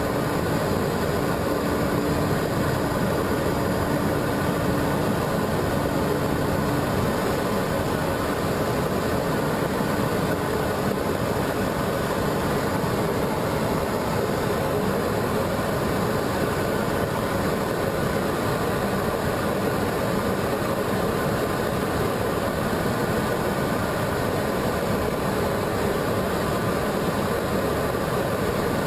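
Steady aircraft engine and airflow noise in flight, an unbroken, even drone with a few faint steady tones running through it.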